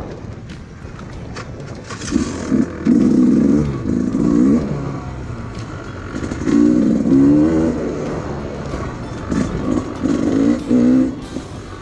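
Two-stroke GasGas 300 enduro motorcycle engine revving under throttle in three loud bursts, its pitch rising and falling, with quieter lower running in between.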